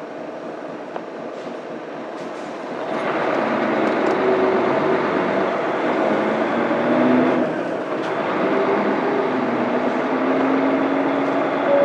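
Mitsubishi Fuso Aero Star bus's 6M70 diesel engine pulling away and accelerating, heard inside the cabin. The engine tone rises, drops briefly about seven and a half seconds in with a manual gear change, then climbs again.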